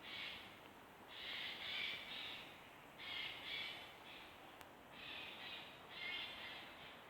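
Birds calling repeatedly outdoors, a run of rough calls about every second, each lasting up to a second or so.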